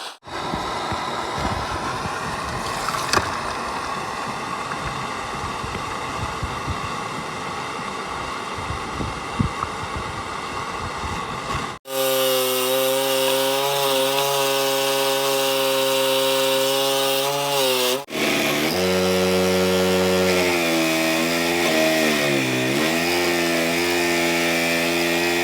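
Workshop power tools used on a cast-iron vice in three cut-together clips. First comes a rasping, noisy stretch with scattered clicks. Then, after sudden cuts, comes a steady motor whine whose pitch dips several times in the last clip, as if the tool is pressed into the work.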